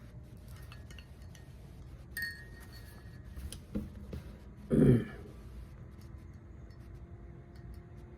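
A spoon clinking against a coffee mug as creamer is stirred in: a ringing clink about two seconds in and a lighter tap a little later. Just before the five-second mark comes a brief, louder sound that falls in pitch.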